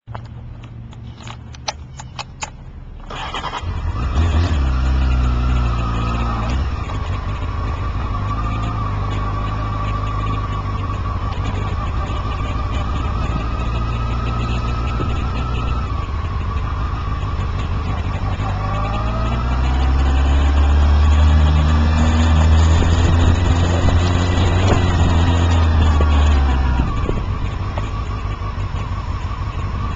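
A few clicks, then a car's engine and road noise as it drives along, with the engine pitch rising as it picks up speed past the middle and easing off near the end.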